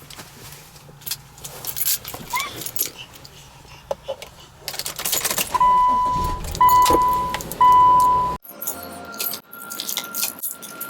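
Clicking and rattling handling noises, then three electronic beeps about a second apart, each held for most of a second at one pitch.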